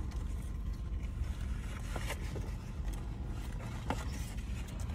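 Steady low hum of a car idling, heard inside the cabin, with a few faint short clicks of chewing about two seconds in and again near four seconds.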